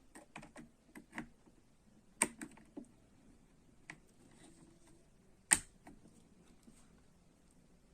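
Small clicks and taps of a laptop RAM module being handled and fitted into its memory slot, with two sharp clicks, about two seconds and five and a half seconds in, as it seats.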